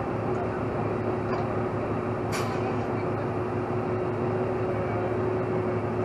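Heavy truck engine running steadily with a steady whine over it, and one sharp click about two and a half seconds in.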